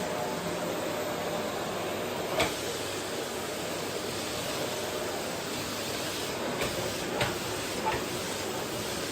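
Vacuum cleaner running steadily, an even rushing noise with a faint steady hum in it. A few short knocks or clicks break through, the loudest about two and a half seconds in and three smaller ones later on.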